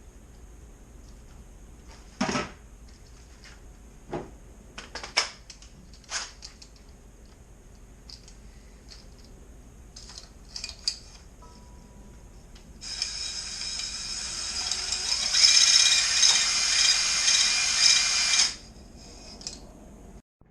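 Tools clicking and knocking as they are handled, then a handheld power tool runs with a high whine for about six seconds, getting louder partway, and cuts off, working rust off the engine block.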